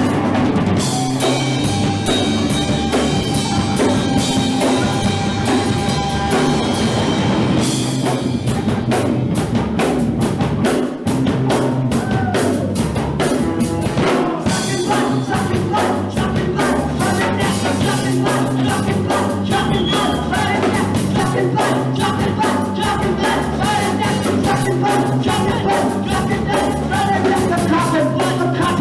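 Punk rock band playing live and loud, the drum kit hammering a steady beat under the full band.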